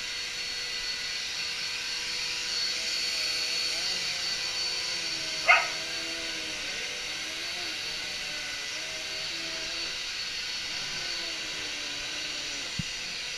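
Vacuum cleaner running steadily with a high whine and hiss, its lower hum wavering. About five and a half seconds in, a sudden sharp crack, and a small click near the end.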